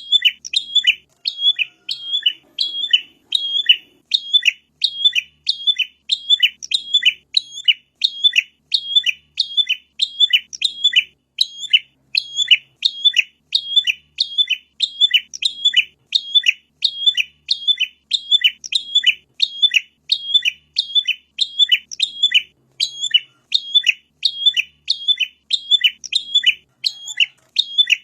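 Prinia (prenjak) song: a fast, steady run of sharp chirped notes, about two to three a second, repeating without a break.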